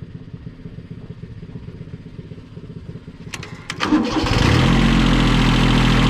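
Diesel engine being started after its glow plugs are used: a low, even chugging, then a few sharp clicks about three seconds in, and the engine catches and runs loud and steady.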